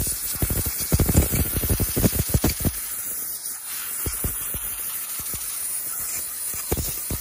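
Steady hiss of a jet of air blowing out gas furnace burners, with scattered low knocks, more of them in the first few seconds.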